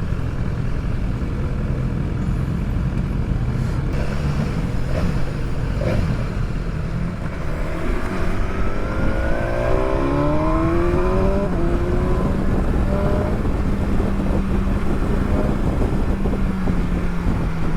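Motorcycle engine running at road speed with rushing wind noise; about eight seconds in, its pitch rises for a few seconds as it accelerates.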